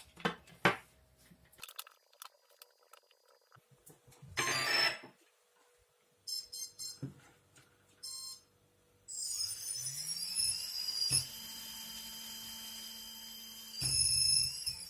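Brushless ESC sounding its short startup beeps, then a small brushless RC outrunner motor spinning up with a high-pitched whine and running steadily, louder briefly near the end as the throttle rises. The motor is the one used to show that the ESC works; it twitches at certain revs and squeals.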